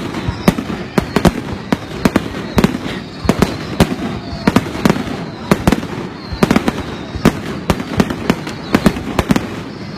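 Fireworks display: aerial shells bursting in quick, irregular succession, a few sharp bangs a second over a continuous rumble and crackle.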